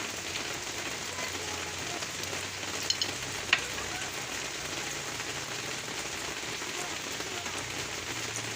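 Steady rain falling, an even hiss, with two short sharp clicks a little after the middle, the second louder.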